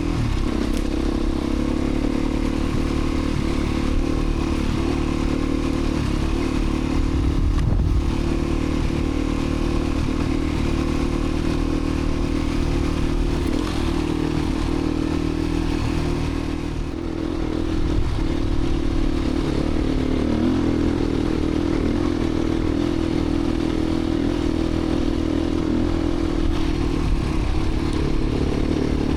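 Beta 350 RRS dirt bike's four-stroke single-cylinder engine running at steady revs while riding, with a brief easing off the throttle a little past halfway.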